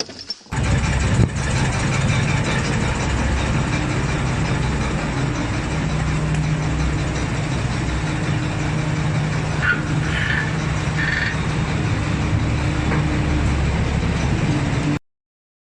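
Steady car engine and road noise from a vehicle on the road, with a low hum. Two short high-pitched sounds come about two-thirds of the way through, and the noise cuts off suddenly near the end.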